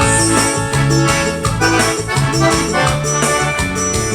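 Forró band playing an instrumental passage, an accordion leading over a bass line and a steady percussion beat.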